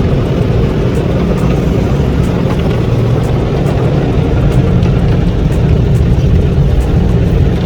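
Automated car wash working over the car, heard from inside the cabin: a loud, steady, low rumble of the wash equipment and spray, with faint light ticks on top.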